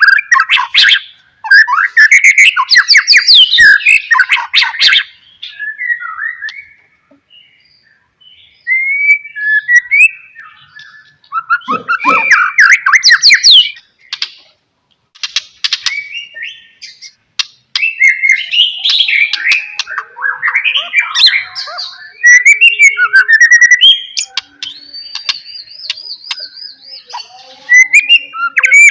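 White-rumped shama (murai batu) singing loudly in varied bursts of sweeping whistles, rapid trills and harsh clicking notes, broken by short pauses. Near the end comes one long, even trill.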